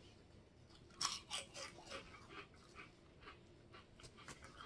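Crisp puffed shrimp chips being bitten and chewed: a sharp crunch about a second in, then a run of quieter, irregular crunches.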